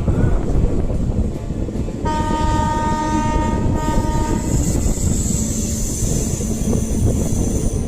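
Train running past with a steady low rumble, sounding its horn once for about two seconds, about two seconds in. A high-pitched squeal follows and holds to the end.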